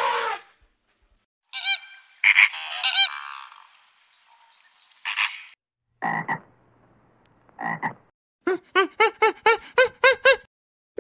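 A string of separate animal calls with short silences between them. Midway come two short croaks from a common frog, and near the end a quick run of about nine pulsed calls, some four a second; a few seconds in there is a cluster of higher pitched calls.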